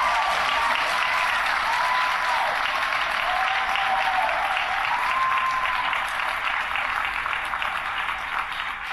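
Audience applauding, with a few short cheers over the clapping; the applause eases off slightly near the end.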